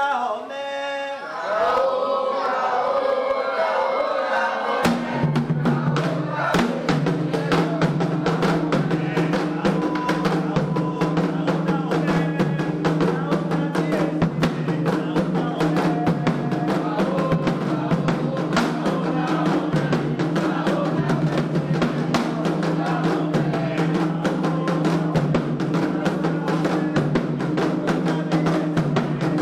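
Candomblé ritual drumming on atabaque hand drums, a fast dense beat that comes in about five seconds in over steady held low tones, after a short stretch of voice.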